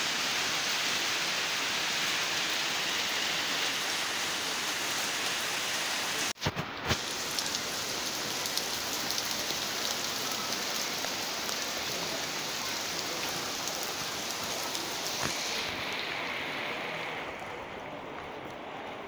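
Heavy rain falling steadily, a dense hiss of rain on wet ground and surfaces. It breaks off for a moment about six seconds in, then grows softer and duller near the end.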